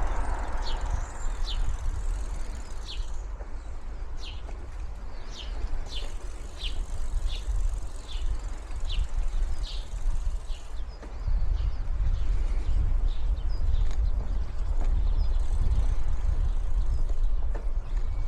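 Low, uneven rumble of wind and riding noise on the bicycle-mounted microphone, heavier in the second half. Over the first half, birds give a string of short, high chirps.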